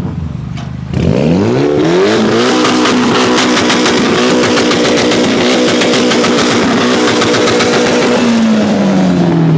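Mitsubishi Lancer Evolution X's turbocharged 2.0-litre four-cylinder revved hard. The revs climb about a second in, are held high and steady for several seconds, then fall away near the end.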